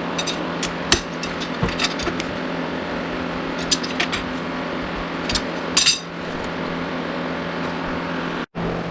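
Metal hand tools clinking and knocking against car suspension and brake parts, a dozen or so sharp clicks scattered over a steady low hum, with a brief cut to silence near the end.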